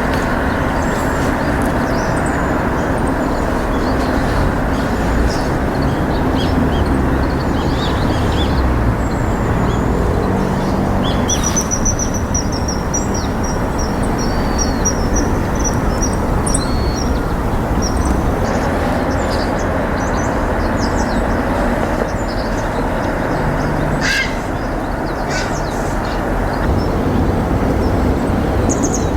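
Steady loud background rumble with scattered wild bird calls over it, including a high, fast trill from about twelve to seventeen seconds in.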